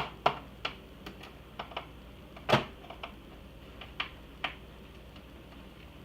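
Sharp, irregular clicks and snaps of hard plastic as a flathead screwdriver pries at the iMac G3's plastic front casing, with the loudest crack about two and a half seconds in; the brittle plastic is already cracked and gives way into pieces.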